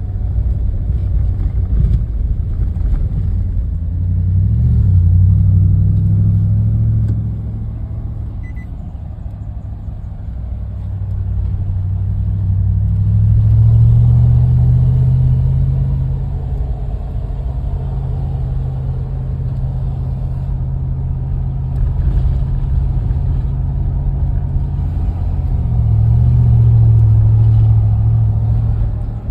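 Car driving, with a steady low engine and road rumble. The engine note rises and grows louder three times: about four seconds in, around thirteen seconds in, and near the end.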